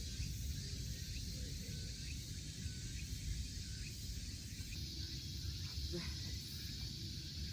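Outdoor ambience: a steady high insect drone over a low rumble, with faint short chirps and a single click about six seconds in.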